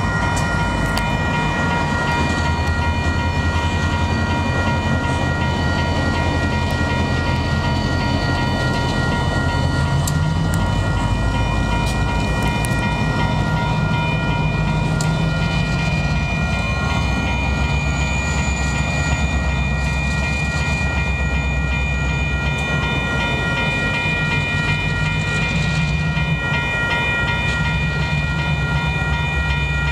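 Railroad crossing's WCH Type 1 electronic bell ringing steadily, over the low running of diesel locomotives moving slowly through the crossing; the engine note shifts a couple of times.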